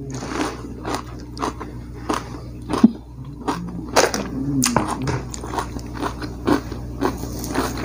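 Close-miked eating sounds of a person eating fried duck, rice and rempeyek (peanut crackers) by hand: chewing with irregular short crunchy bites.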